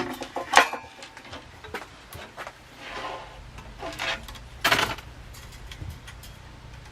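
Metal fan-mounting hardware being handled: sharp clinks and knocks, with short ringing clinks just after the start and again near five seconds, and light rattles between.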